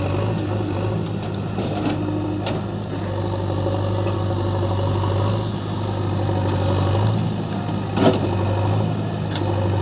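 Diesel engine of a JCB backhoe loader running steadily at a low, even speed, with a few light clicks and one sharp metallic clank about eight seconds in.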